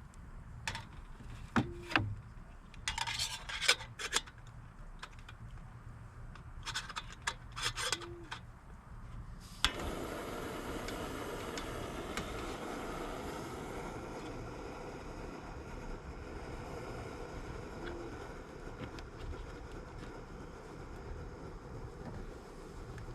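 Camping gear being handled with light rubbing and scattered clicks, then a sharp click about ten seconds in, after which a steady hissing rush starts and keeps going.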